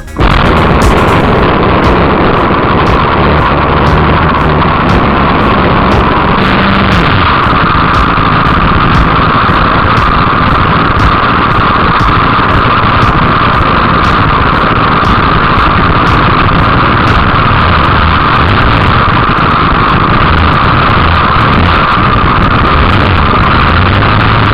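Light aircraft piston engine running steadily and loud, close to the microphone.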